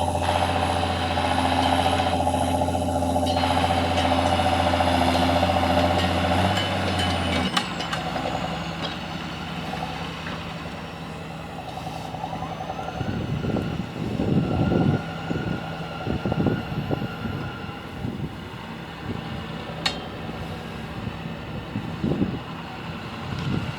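John Deere tractor engine running steadily, then its note drops suddenly about a third of the way in and it carries on quieter, with uneven low rumbles in the middle.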